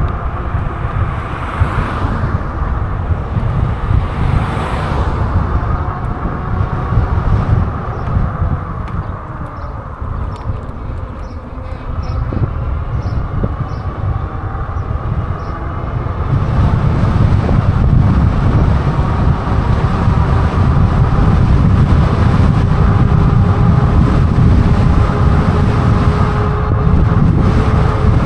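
Wind buffeting the microphone on a moving e-bike, a steady low rumble that gets louder about halfway through, with a faint steady whine under it.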